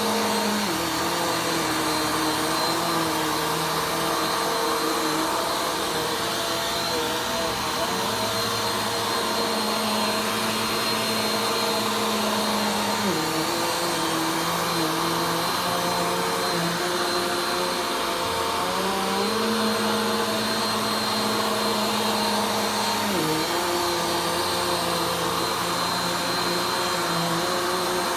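Vacuum cleaner running steadily during slow vacuuming. Its motor tone drops in pitch and then rises back several times, every five seconds or so.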